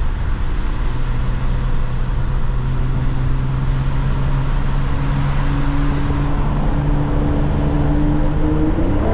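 Mercedes-AMG C43 engine and exhaust running at a steady cruise, holding one engine note over road and tyre rumble.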